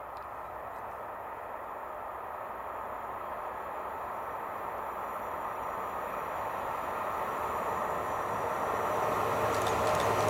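Electric locomotive hauling a freight train approaching on the main line, its rumble and rail noise growing steadily louder, with a few sharp clicks near the end as it draws close.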